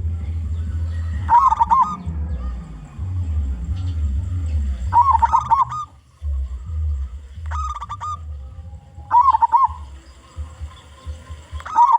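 Zebra dove (local perkutut) cooing: short phrases of quick, warbling notes repeated about five times, a few seconds apart. A low rumble runs under the first half.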